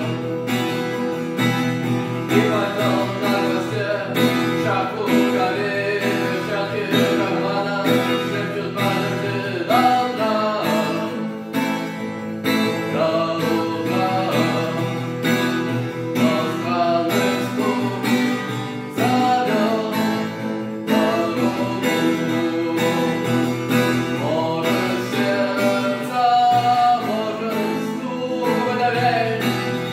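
Acoustic guitar strummed steadily, with a voice singing a song over it.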